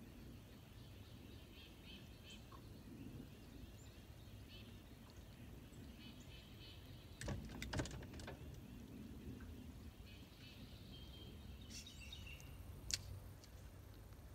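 Faint birdsong: scattered short chirps over a low outdoor hum. A few sharp clicks or knocks come about seven seconds in, and one more near the end.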